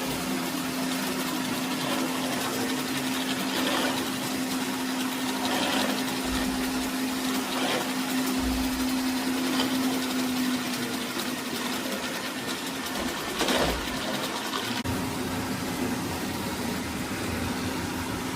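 eufy E25 robot vacuum running, a steady motor and suction hum with a constant tone, with a few low knocks, the loudest about thirteen seconds in.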